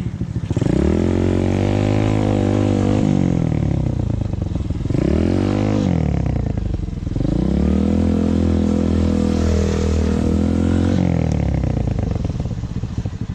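Motorcycle engine revving up sharply three times, its pitch sinking slowly after each rise, before dying down near the end.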